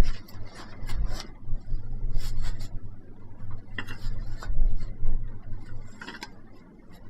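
Irregular scraping and rubbing with a few sharp light clicks, from cookware and utensils being handled in the kitchen. A steady low hum runs underneath.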